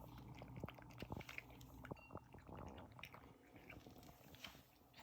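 A five-month-old Korean shorthair kitten eating fast and chewing, with quick, faint irregular clicks of its bites.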